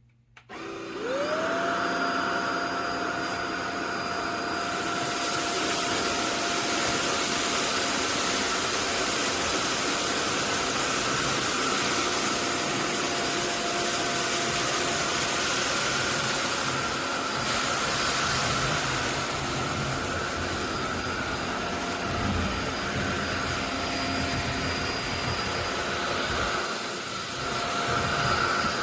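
SunSare X11 cordless stick vacuum switched on, its motor spinning up with a quickly rising whine and then running steadily with a loud rush of air. The sound dips briefly near the end.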